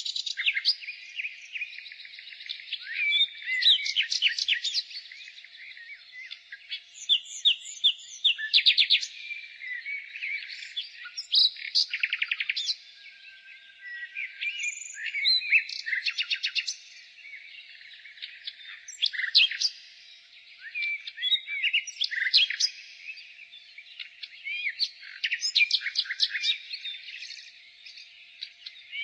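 Nightingale singing: a run of varied phrases, many built of fast repeated notes and trills, separated by short pauses.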